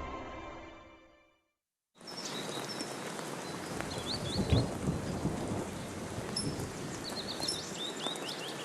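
Music fades out, and after a moment of silence steady rain starts, with birds chirping now and then and a brief low rumble about halfway through.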